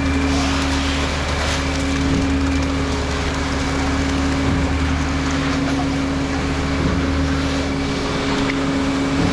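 Concrete truck's diesel engine running steadily at constant revs, a continuous low drone with a steady hum.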